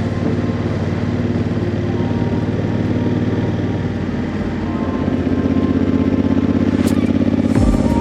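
Honda CRF1000L Africa Twin's parallel-twin engine running steadily while riding, getting a little louder over the last few seconds. A run of fast, regular ticks comes in near the end.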